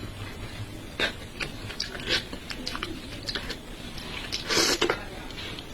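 Close-up eating sounds from a meal of braised fish: scattered wet mouth clicks and light taps, with one short louder noise about four and a half seconds in.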